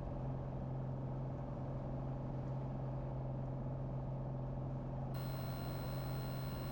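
Piper PA-28's piston engine and propeller droning steadily in cruise, heard from inside the cockpit as a constant low hum. A faint high whine comes in about five seconds in.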